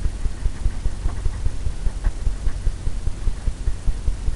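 Blender brush tapping rapidly on a stretched canvas, a quick run of soft low thumps about four or five a second, as it softens wet oil paint into a misty blend.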